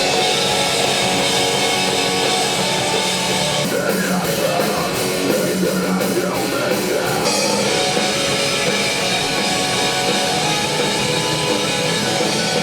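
Rock music with electric guitar and a drum kit, playing at a steady level.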